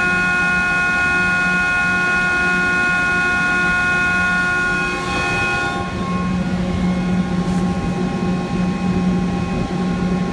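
Electric motor on a variable-frequency drive, running with a steady whine of several high tones over a low hum. About six seconds in the high tones die away, leaving a louder, rougher low hum.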